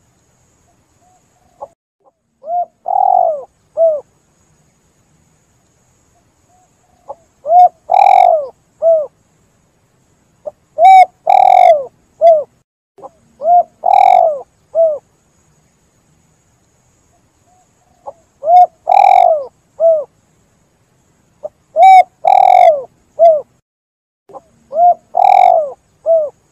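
Spotted dove (tekukur) cooing: about seven phrases of three or four low coos each, each phrase with a longer, louder note near its middle and silent pauses between phrases.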